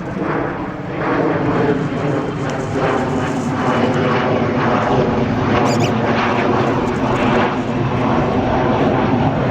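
Low-flying aeroplane passing over, its engine drone growing louder about a second in and holding steady.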